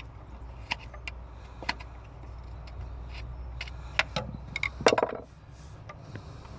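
Scattered metallic clicks and knocks of hand tools and loose parts being handled on the excavator's engine, the loudest a heavier knock about five seconds in, over a steady low hum that stops at about the same moment.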